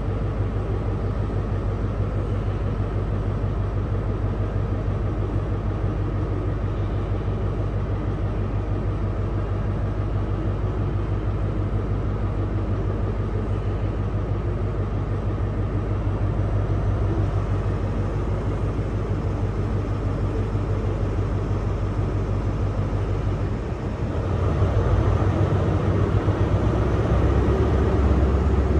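A passing train's engine running with a steady low rumble, which gets louder about 24 seconds in.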